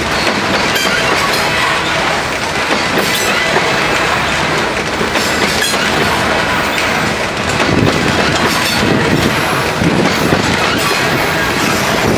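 Loaded coal train's hopper cars rolling past on the track: a steady rumble of steel wheels on rail, with clicks recurring every couple of seconds as wheels cross rail joints.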